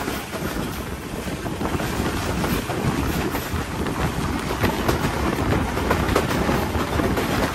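Passenger train running on the line, heard from on board: a steady rumble of the running gear with the clickety-clack of wheels over rail joints and frequent small knocks.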